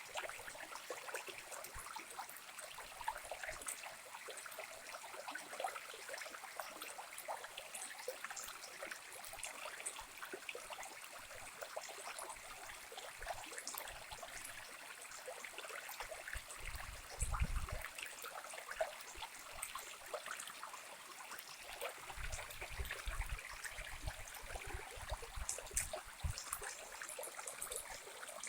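Small waterfall cascading over rocks: a steady splashing and trickling of water. Brief low rumbles come in a little past halfway and again for several seconds near the end.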